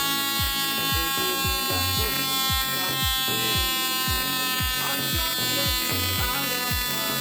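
Background music with a steady kick-drum beat, about two beats a second, over a steady electric buzz from the repaired FS 6AL multi-spark ignition unit running on test.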